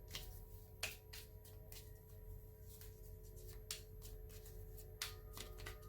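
Faint rustling and scattered clicks of tarot cards being handled and shuffled, over a steady ringing tone in the background; a second, higher tone joins about five seconds in.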